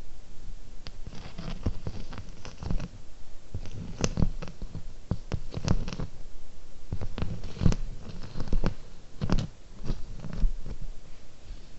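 Close-miked ASMR tapping and handling of small objects: irregular sharp taps and clicks over soft rustling and low thumps.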